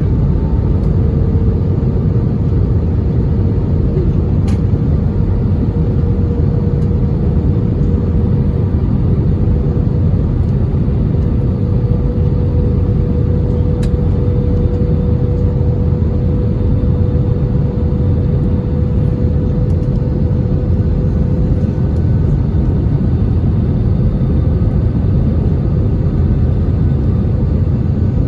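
Airbus A320 cabin noise: the steady rumble of the jet engines and airflow heard from a passenger seat, with a steady whine joining about a second in.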